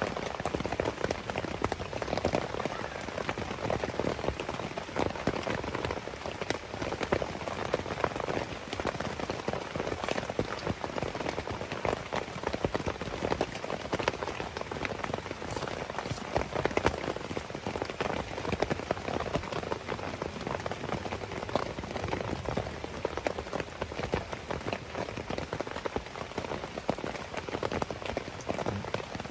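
Heavy rain beating on a tent, a dense, steady patter of countless drops.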